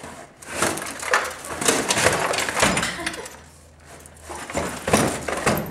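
A crushed, flattened microwave being wrestled out of a trash compactor's chamber: metal scraping and clattering, with a run of knocks and clanks. It goes quiet briefly past the middle, then more knocks and scraping follow near the end.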